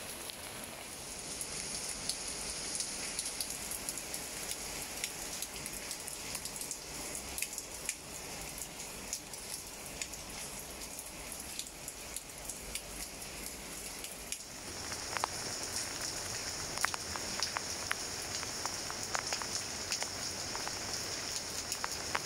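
Rain falling on leaves: a steady patter with many separate drops ticking. About two-thirds of the way in the sound changes, and the individual drop hits become sharper and more frequent.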